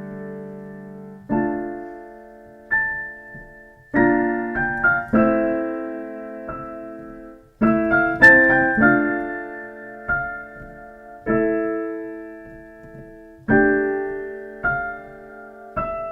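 Solo piano playing a slow, gentle piece: chords and single notes struck every second or two, each left to ring and fade.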